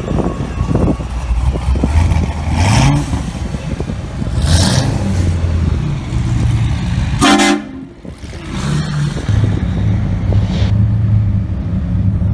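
Modified performance car engines idling with short revs. About seven seconds in there is a brief horn-like blast.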